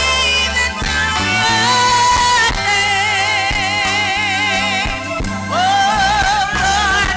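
Gospel singing with band accompaniment: a lead voice holding long notes with vibrato over a steady bass and drums.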